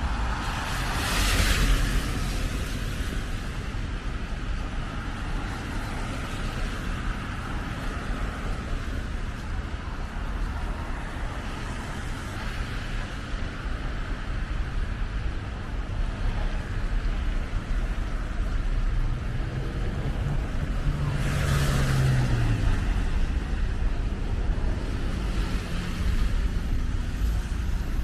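Street traffic: a steady low rumble with two vehicles passing close, one about a second in and a louder one with its engine audible about twenty seconds in.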